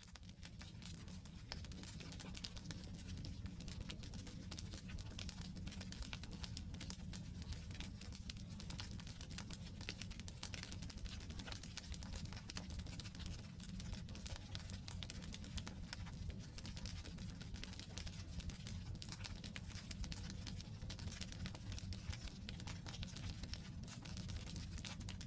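Wood campfire burning, with many small irregular crackles and snaps over a low, steady rumble.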